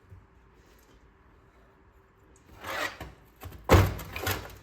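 Engine parts being handled during a teardown: a rubbing scrape about two and a half seconds in, then a sharp knock followed by more scraping near the end.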